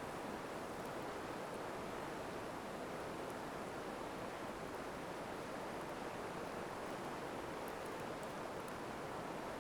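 Steady rushing of flowing river water, with a few faint ticks of the campfire crackling near the end.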